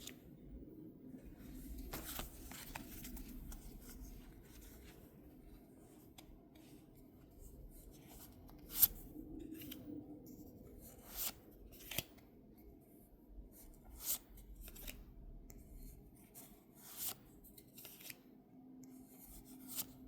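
Pokémon trading cards and packaging being handled: quiet rustling and sliding, with a few sharp clicks or snaps every couple of seconds.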